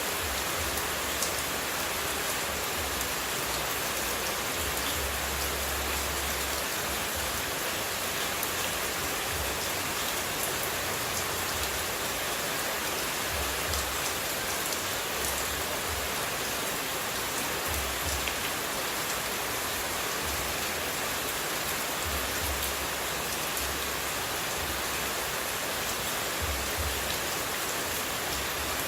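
Steady sound of running water used as white noise: an even, unbroken hiss with faint scattered droplet ticks.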